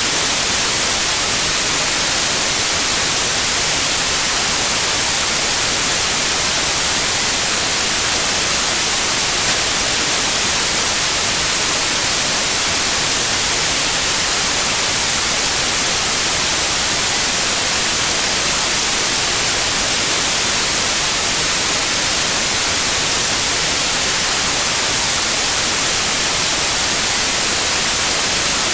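Synthetic white noise, a steady hiss, with a continuous high-pitched pure tone at 9645 Hz over it: a tinnitus masking and therapy signal.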